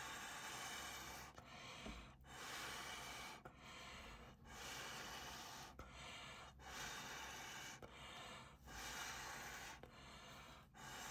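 A person blowing air in a series of long puffs, each about a second, with short breaths between, to spread out a bloom of wet acrylic pour paint.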